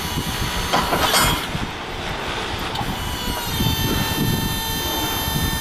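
Electric motor of a semi-electric paper roll clamp truck running with a steady whine over low rattling. Its pitch steps to a new level about three and a half seconds in, and there is a brief scraping burst about a second in.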